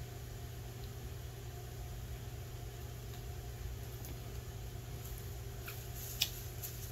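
Steady low mechanical hum, like a motor running, with a few small clicks near the end.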